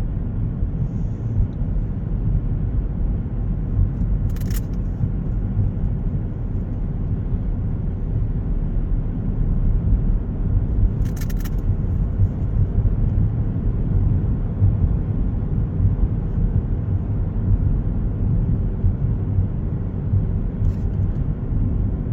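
Steady low road and engine rumble of a car heard from inside the moving vehicle, with two brief clicks, about four and eleven seconds in.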